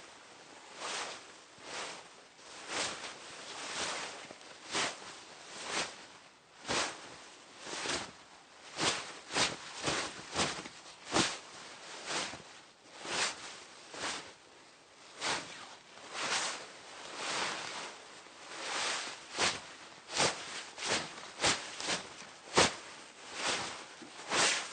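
Hanbok fabric rustling and swishing as the wearer moves, a run of soft swishes about one a second. Through the middle the swishes come quicker and sharper, several close together.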